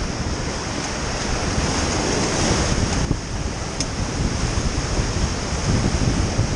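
Whitewater rapids rushing and splashing around a rafting boat as it runs through a rapid, with wind buffeting the microphone.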